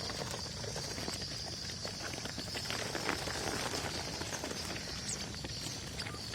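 Small birds chirping over a steady high-pitched drone, with many quick light taps and flutters throughout.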